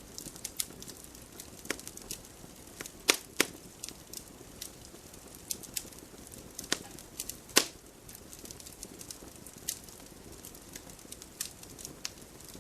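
Wood fire crackling: a low steady hiss with irregular sharp pops and snaps, a few louder cracks among them.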